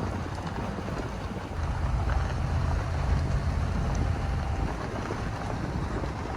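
Truck driving, its engine and road noise making a low rumble mixed with wind buffeting the microphone, growing louder for a few seconds in the middle.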